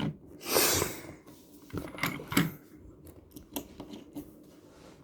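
Small die-cast Mini Racers toy cars being handled: a short rustle about half a second in, then a few light, sharp clicks as the cars are moved and set down.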